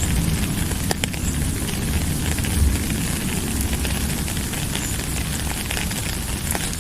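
Steady rain, a dense hiss with a low rumble underneath and many drops ticking close by; one sharper drop tick about a second in.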